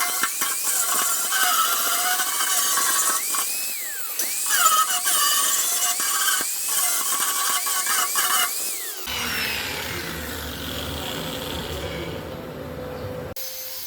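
Power tool working metal, its pitch repeatedly dipping and recovering as it bites. About nine seconds in it gives way abruptly to a lower, rougher noise.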